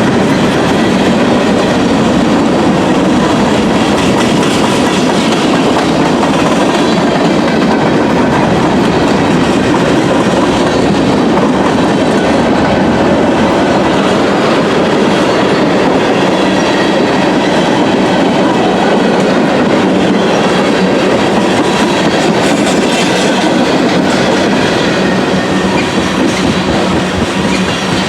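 Norfolk Southern freight train rolling past, its cars' wheels running on the rails with a steady, loud noise that eases slightly near the end.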